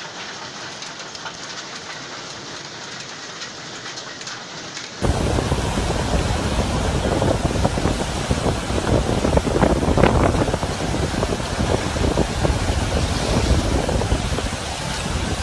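Hail and rain pounding down in a hailstorm: a dense, steady clatter of impacts. About a third of the way in it jumps suddenly to a much louder, heavier pounding.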